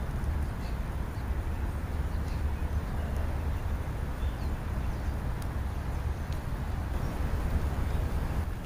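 Steady low rumble of wind on the microphone, with a few faint, short bird calls now and then.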